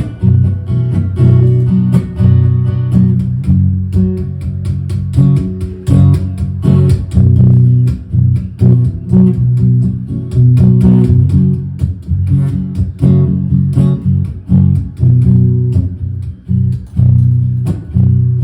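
Instrumental guitar break in a song: guitar played in a steady rhythm over a strong bass line, with no singing.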